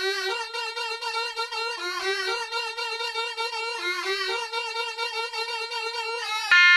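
Musical vehicle horn playing a tune of changing, wavering notes. Near the end it cuts abruptly to a louder horn holding a steady chord.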